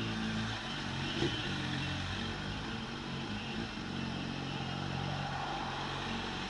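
Motorcycle engine running steadily while riding, under wind noise on the microphone.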